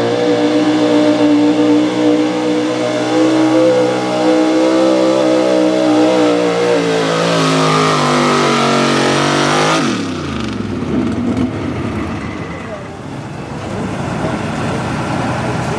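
Big-block engine of a 4x4 pulling truck running hard at high revs under load, rising slightly toward the end. About ten seconds in the throttle is cut and the engine note falls away quickly, leaving a jumbled background of crowd and idle noise.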